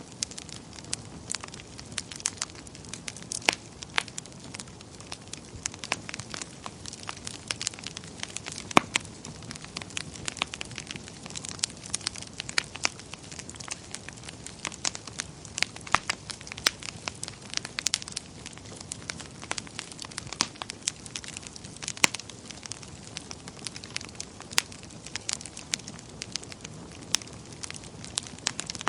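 Wood fire crackling in a fireplace: irregular sharp pops and snaps over a steady low hiss of the flames.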